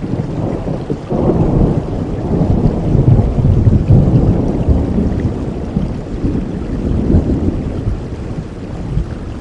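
Steady rainfall with a long, low rumble of thunder that swells about a second in and fades away toward the end.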